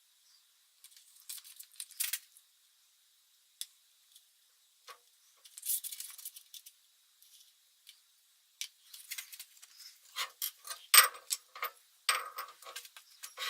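Metal parts and tools being handled, with scattered light clinks, taps and short scrapes that grow busier and louder in the last few seconds.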